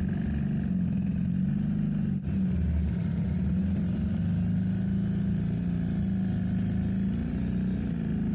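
Motorcycle engine running steadily as the bike rides along, with a brief dip in the sound about two seconds in.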